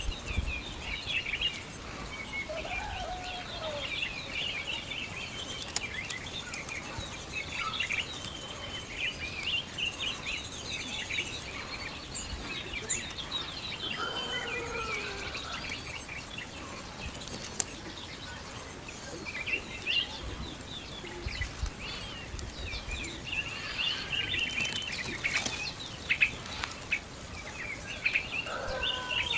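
Small birds chirping and twittering continuously, many short high calls overlapping, with a few lower gliding calls and occasional sharp clicks.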